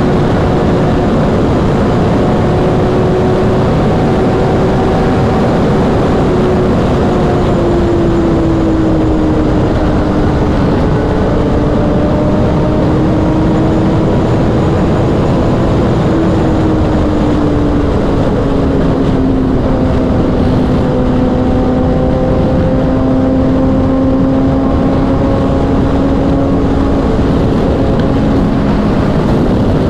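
Kawasaki sportbike's inline-four engine running at highway speed under heavy wind noise, its note steady and high, then sagging slowly in pitch in two steps as the revs ease off.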